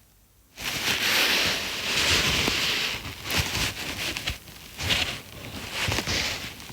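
Close rustling and crackling handling noise with scattered clicks, starting suddenly about half a second in and going on unevenly.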